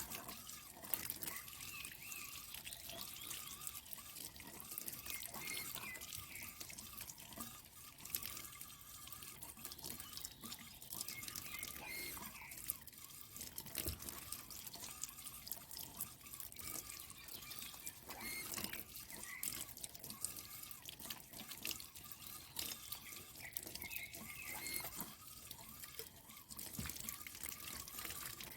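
Water running and dripping, with many small splashes and clicks scattered through it.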